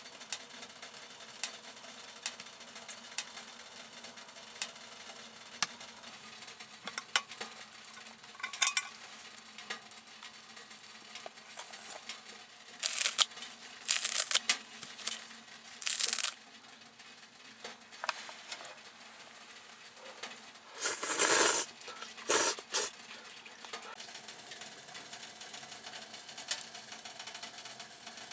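Camp cooking: a utensil stirring and scraping in a pot or pan over a low sizzle, with scattered sharp clicks and a few louder scraping bursts.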